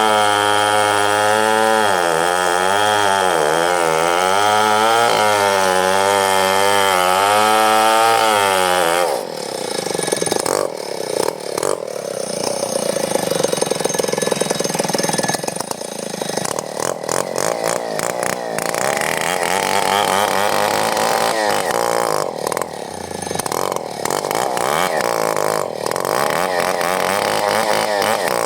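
Chainsaw running at high speed, its pitch wavering up and down as it cuts wood. About nine seconds in, the steady tone gives way to a rougher, uneven sound with scattered short knocks.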